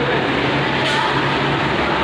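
Steady rumbling noise of a moving vehicle, with a faint hiss that swells about every one and a half seconds.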